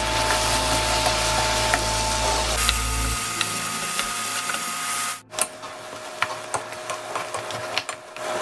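Sliced green onion and onion sizzling with pork back ribs in a frying pan as they are tossed, a dense crackle with scattered clicks of chopsticks and then a wooden spoon against the pan. The sound drops out briefly about five seconds in, then goes on quieter with sharper clicks.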